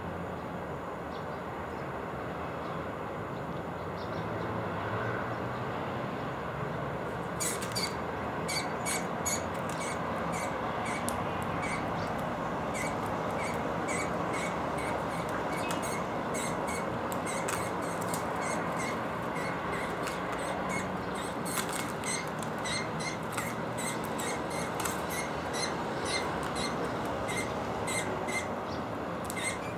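Small finches and sparrows at a seed feeder: rapid short high ticks and chirps, several a second, starting about a quarter of the way in, over a steady background hum.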